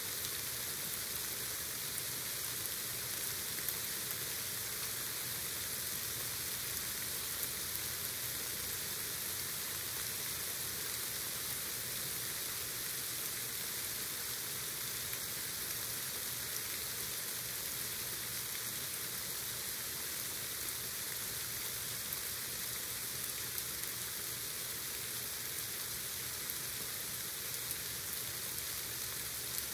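Heavy rain pouring down: a steady, even hiss of rainfall, with a few scattered louder drop impacts.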